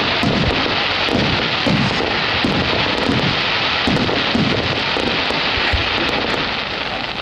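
A starmine fireworks barrage: aerial shells bursting in quick succession, about two low booms a second, over a steady crackling hiss. The barrage eases off near the end.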